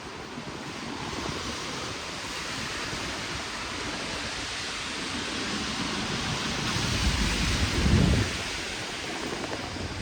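Heavy rain falling, a steady dense hiss. A low rumble swells and peaks about eight seconds in, then falls away.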